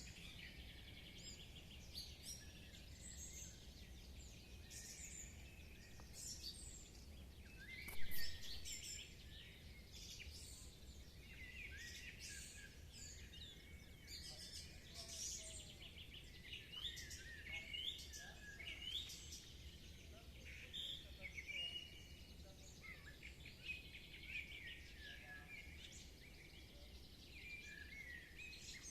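Several songbirds singing at once in a morning chorus: overlapping chirps and whistled phrases, with one louder call about eight seconds in, over a faint steady low rumble.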